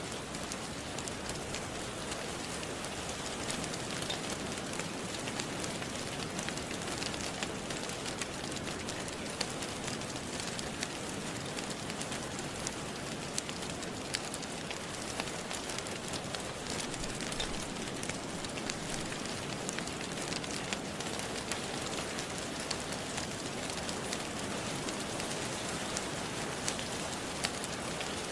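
Steady rain falling, with small sharp crackles and pops from a wood fire scattered through it.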